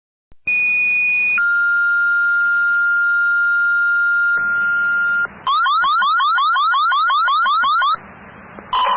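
Fire dispatch alert tones heard over a radio scanner. A short high steady tone is followed by a longer, lower steady tone, as in a two-tone pager activation. Then comes a fast rising warble at about five chirps a second, ending in a short burst of radio hiss.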